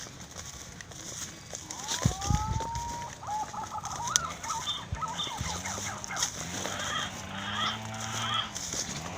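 Animal calls: a few rising and falling whistled notes two to three seconds in, then a low, arched call repeating about once a second.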